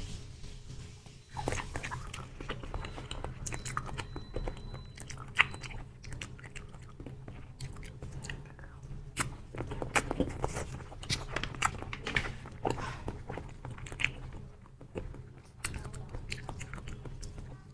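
A person eating chewy jelly squeezed from a plastic tube, with many short, sticky mouth clicks and smacks of close-miked chewing.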